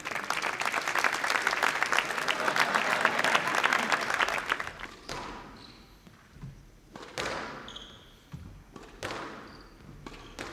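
Audience applauding for about four and a half seconds, then a squash rally starts: the ball struck by rackets and hitting the court walls about every two seconds, each hit ringing briefly in the hall.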